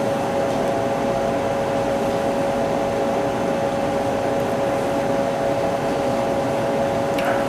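A steady fan-like mechanical hum with a constant whine in it, unchanging throughout.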